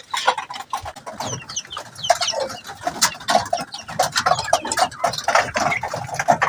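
Chickens clucking and chicks peeping, many short calls overlapping, with some rustling and scratching.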